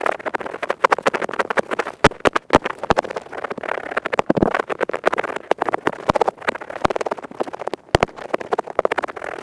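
Earpick scratching at high speed, close to the microphone: a dense, fast crackly scraping, many strokes a second, with a few sharper clicks standing out.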